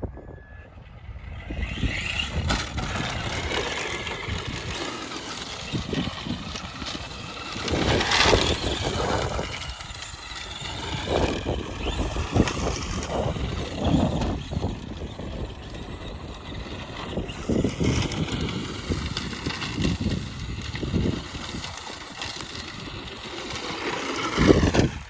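Traxxas 2WD Slash RC truck being driven, geared with an 86-tooth spur on a 2S LiPo: its electric motor and gears whine, rising and falling in pitch with the throttle, with repeated bursts of louder noise as it accelerates and runs over the ground.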